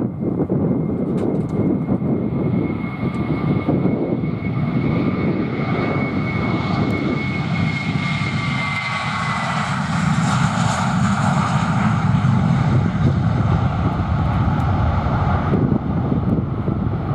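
Jet airliner's engines passing close by, a loud steady rumble with a high whine that drops in pitch as the aircraft goes past.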